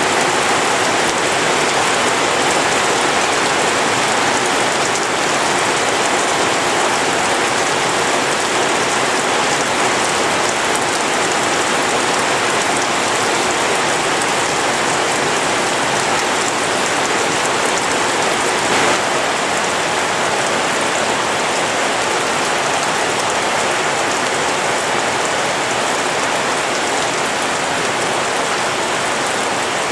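Steady rain falling, an even hiss with no let-up, and one brief tap about two-thirds of the way through.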